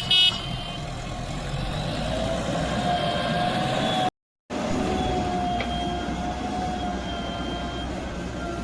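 Diesel engine of heavy earth-moving machinery running steadily with a wavering whine over it. A reversing beeper sounds at the very start, and the sound cuts out for a moment about four seconds in.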